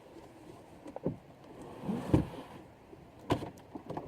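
A few scattered knocks and clunks as lawnmower parts are handled during assembly. The loudest comes a little after two seconds in.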